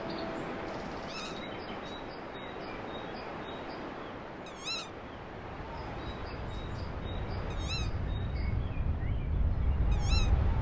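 Bird calls: a short, wavering call repeated about every three seconds over a steady outdoor hiss, with a low rumble building in the second half.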